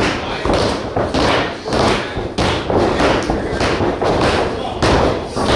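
Heavy thuds in a large hall, coming about twice a second in a fairly even run, over a continuous noisy background.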